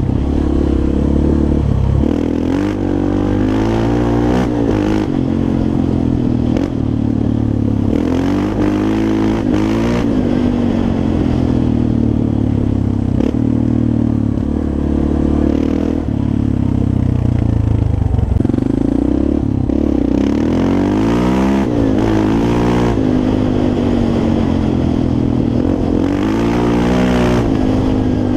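Yamaha Raptor 350 quad's single-cylinder four-stroke engine under way, its pitch rising and falling again and again as the throttle is worked, with occasional knocks and rattles.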